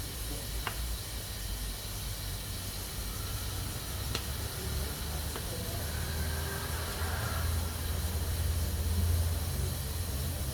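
Pressure cooker hissing steadily as it vents steam, over a low rumble. There are a few faint clicks.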